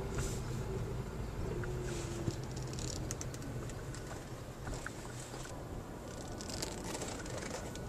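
Car engine running, heard from inside the cabin as a steady low hum, with a few faint clicks and rustles of handling.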